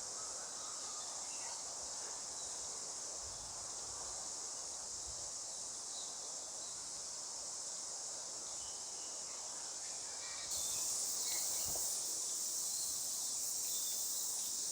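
A steady, high-pitched chorus of insects, which grows louder about ten seconds in.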